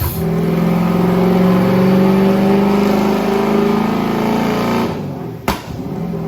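Boosted, methanol-fuelled Ford engine held at high revs under full load on a chassis dyno, with a steady note for nearly five seconds before it drops off. A sharp pop about five and a half seconds in, then the engine runs on at a lower, steady note.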